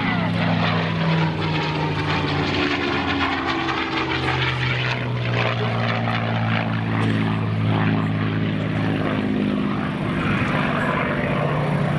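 P-51 Mustang's Packard Merlin V-12 engine and propeller running hard in flight during aerobatics. The engine note slides in pitch as the plane manoeuvres, falling just at the start.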